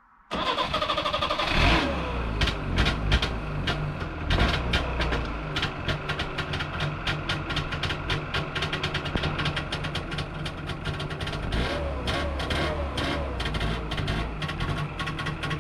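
Trabant P601's small two-stroke engine starting and running, with a rapid, irregular clattering through it. The revs swing briefly just after it catches.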